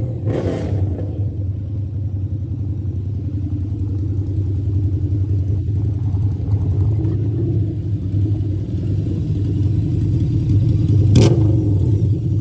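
Harley-Davidson motorcycle engine running steadily under way, a low rumble, with a sharp knock near the end.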